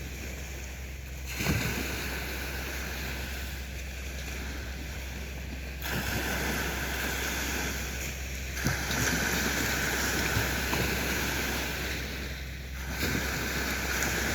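Sea waves breaking and washing up the beach, the surf swelling again every three to five seconds.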